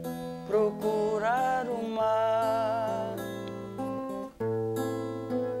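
Acoustic guitar accompanying a male singer, who holds a wavering note about a second in between sung lines.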